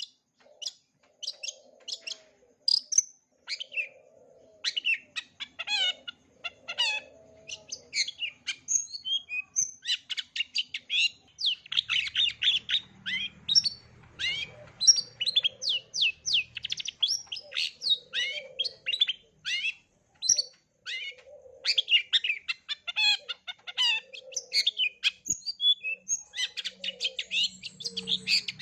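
Long-tailed shrike singing a fast, varied song of sharp chirps, quick sweeps and rattling notes, packed with imitations of other birds' calls.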